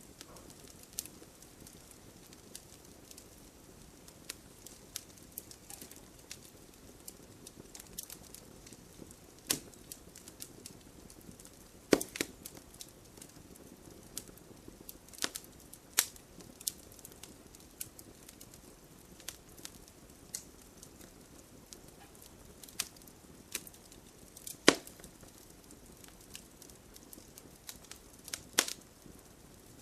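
Wood campfire burning, with irregular sharp pops and crackles over a low steady hiss. A few louder snaps stand out about twelve, sixteen and twenty-five seconds in.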